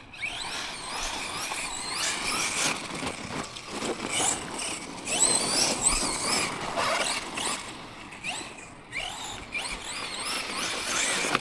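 Electric motor of a Tekno MT410 2.0 1/10-scale RC monster truck whining, its pitch rising and falling over and over with bursts of throttle.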